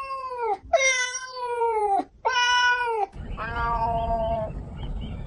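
Cats meowing, about four meows in a row: the first three long and falling in pitch. About three seconds in the recording changes to a low rumbling background with a steadier, flatter meow.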